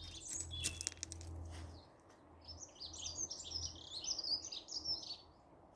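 Songbird singing a rapid, varied warbling phrase of high notes lasting about three seconds, starting a little over two seconds in. Before it come a few sharp clicks and a low rumble.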